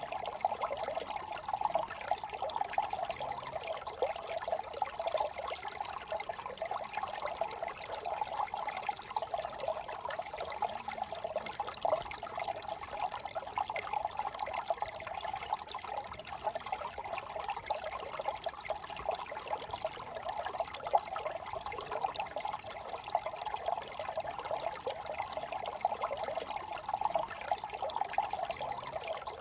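Small brook trickling and babbling over stones, a steady flickering patter of running water.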